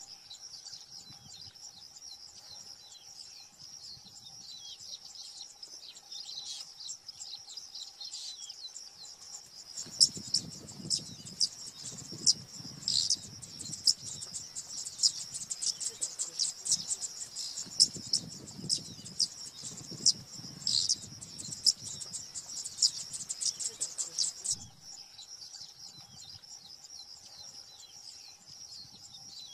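Bird chirping over a steady insect drone. From about ten seconds in until nearly twenty-five seconds, a louder run of rapid, sharp chirps with a low rumble beneath takes over, then the quieter chirping and drone return.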